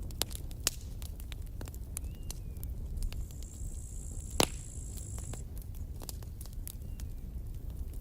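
Campfire crackling: irregular sharp pops and snaps over a low rumble of burning, with one loud pop a little past halfway and a brief high hiss around it.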